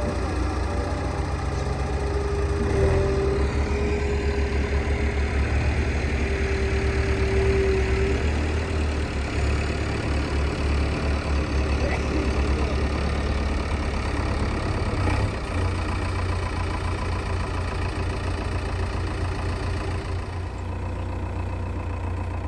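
Diesel engine of a JCB 3DX backhoe loader running with a steady, low pulsing throb while it digs and loads mud. A held higher tone rides on top during the first several seconds, when the sound is slightly louder.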